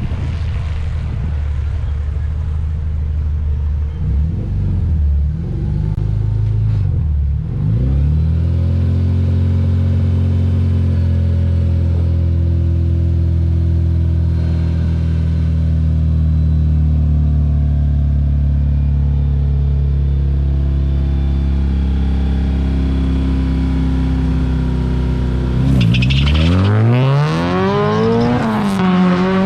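Car engine that wavers in pitch at first, then runs at one steady speed for a long stretch. Near the end it revs up and down several times.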